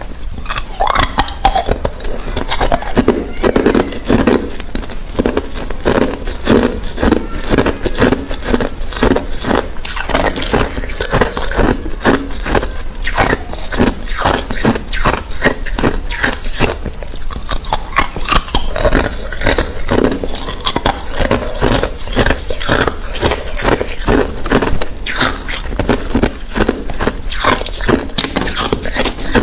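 A person biting and chewing hard ice cubes: a dense, continuous run of sharp crunches and cracks.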